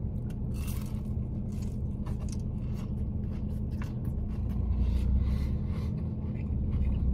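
Crunching bites and chewing of a fried spring roll: scattered crisp crackles over a steady low hum inside a parked car.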